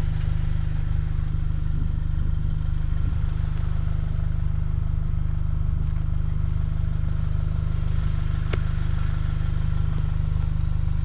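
Volkswagen GTI's turbocharged four-cylinder engine running at a steady speed, a constant low drone with no rise or fall in pitch. A sharp click about eight and a half seconds in, and a fainter one near the end.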